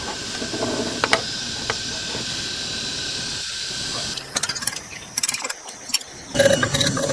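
A workshop machine running with a steady hiss and a faint whine, then a series of sharp knocks and clicks, and a louder machine hum starting near the end.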